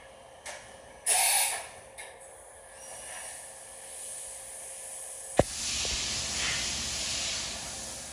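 Hissing from machining equipment: a short hiss about a second in, then a sharp click followed by a longer hiss lasting about two seconds, over a faint steady hum.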